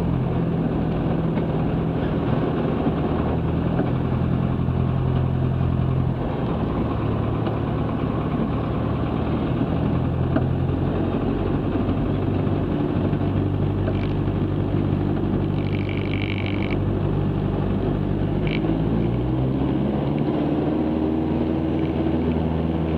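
Cessna 162 Skycatcher's four-cylinder Continental O-200 engine running steadily in the cockpit. Its pitch rises over the last few seconds as power comes up for the takeoff roll, and there is a short high tone about two-thirds of the way in.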